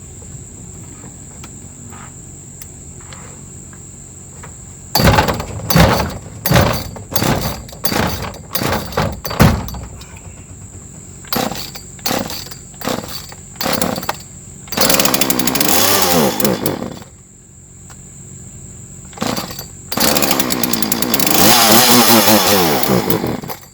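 Poulan Farmhand 2500 two-stroke chainsaw being pull-started cold on its newly replaced recoil starter pulley: a run of short bursts as it sputters and fires, then it runs and revs for about two seconds and dies. After one more short burst it starts again and revs for about three seconds before cutting off near the end, the throttle milked to keep the cold engine going.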